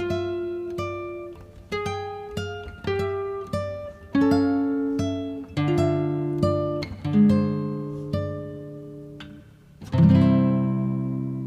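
Background music of a plucked acoustic guitar picking single notes and chords, each note dying away, with a louder chord struck about ten seconds in.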